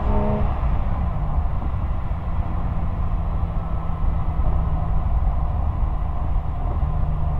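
Exhaust of a 1999 Porsche 911 Carrera 996's 3.4-litre flat-six at close range while driving: the engine note drops a little just after the start, then holds a steady, low rumble at a constant cruising pitch.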